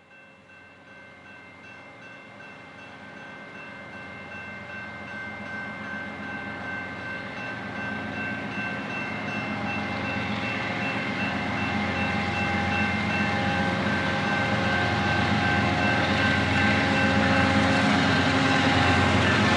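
Train, most likely a diesel locomotive: a steady engine hum with several sustained tones that grows steadily louder throughout.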